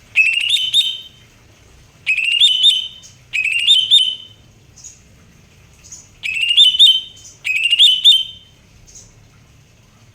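Green leafbird (cucak hijau) singing five loud, bright phrases of rising, looping whistled notes, each just under a second long and about a second or two apart. Short faint high calls come between the phrases.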